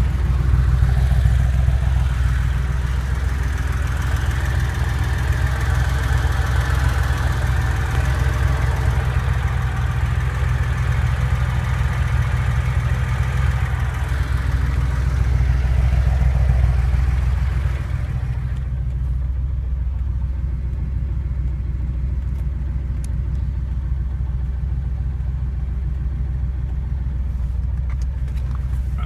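Porsche 911 flat-six engine running steadily, recorded for the engine knock the owner is chasing. About two-thirds of the way through, the higher hiss drops away and the engine sounds a little quieter.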